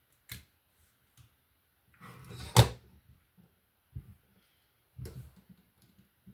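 Plastic Lego pieces being handled: a few light knocks and clicks, with one loud knock about two and a half seconds in, just after a short rustle.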